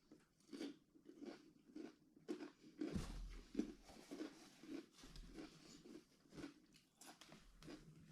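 A person chewing crisp raw cucumber close to the microphone: a steady run of crunchy chews, about two a second.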